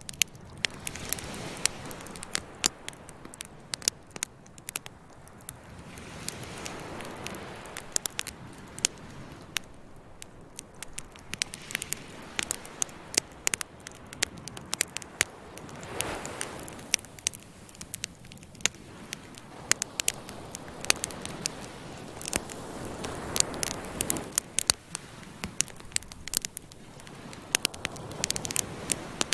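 Campfire crackling with frequent sharp pops, over the steady wash of ocean waves that swell and fade every few seconds.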